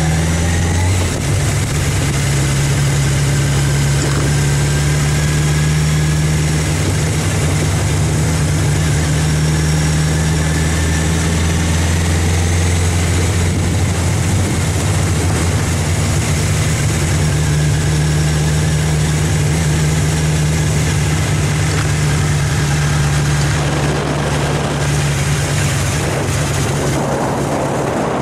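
Vehicle engine running steadily with a low, even hum while driving slowly along a gravel track. A rushing noise grows over the last few seconds.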